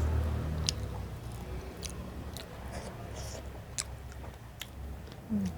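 Close-miked mouth sounds of a person eating by hand: chewing, with sharp wet lip-smacking clicks about once a second.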